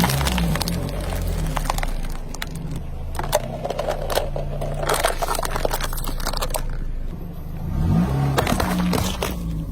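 Car engine running and revving briefly twice while objects are crushed under its tyres, giving clusters of sharp cracks and crackling.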